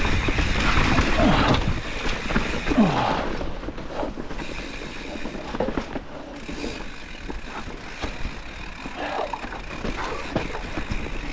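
Mountain bike rolling down a wet rocky trail: tyre noise with the chain and frame rattling and knocking over rocks and roots, louder for the first few seconds.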